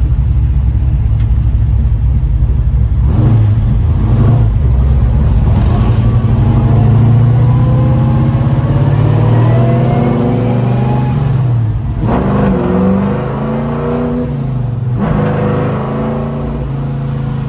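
1970 Chevrolet Chevelle's V8 engine pulling the car up to speed, heard from inside the cabin. The engine note rises steadily in pitch, then falls back sharply twice.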